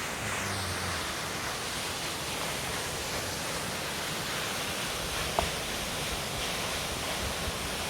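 Queen Mary Falls' waterfall: a steady, even rush of falling water.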